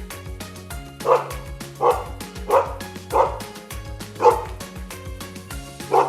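A dog barking: six single barks spaced about a second apart, over background music.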